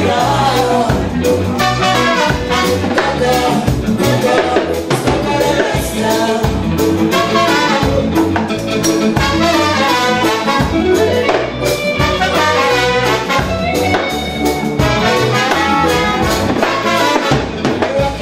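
A live fusion band playing an up-tempo number, with horn lines over a steady bass and drum beat.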